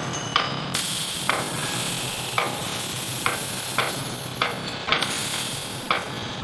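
Factory machine noise: a steady sizzling hiss with sharp clicks about twice a second.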